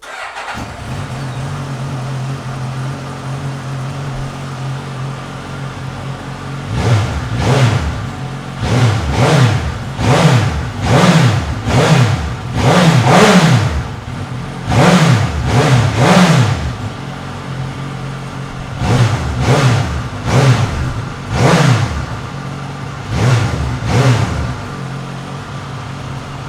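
2018 Suzuki GSX-S1000's inline-four engine starting and idling steadily for about seven seconds, then revved in a long series of quick throttle blips, each rising and falling back, before settling to idle again near the end.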